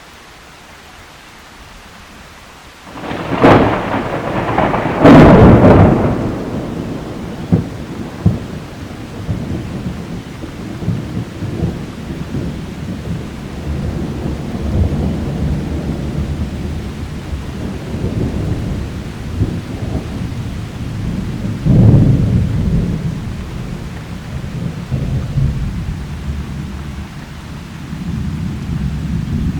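Thunder from a close lightning strike: two sharp cracks a few seconds in, then a long low rolling rumble, with another loud peal later on. Rain hisses underneath.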